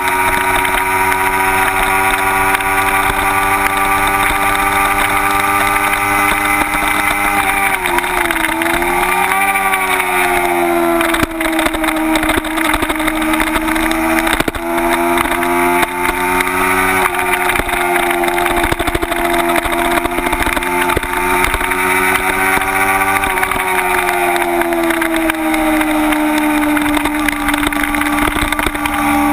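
Kawasaki Ninja 250's parallel-twin engine running hard on track, heard from a camera mounted on the bike with a steady hiss of wind. The engine pitch dips sharply and climbs back about eight seconds in, and falls away more slowly a little past twenty seconds before picking up again.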